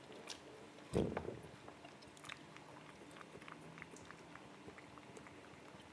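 Faint, close wet chewing and mouth clicks of ripe melon being eaten, with one louder sound about a second in.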